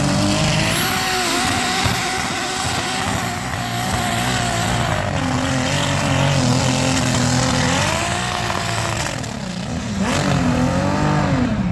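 Turbocharged 2.8-litre six-cylinder engine of a pulling tractor running hard at full load during a pull, with a thin high whistle over it in the first few seconds. Near the end the revs drop and swing up and down as the run ends.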